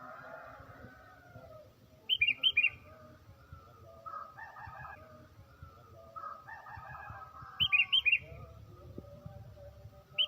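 Sooty-headed bulbul singing: loud bursts of about five quick, bright notes come twice, about five and a half seconds apart, with softer warbled phrases in between.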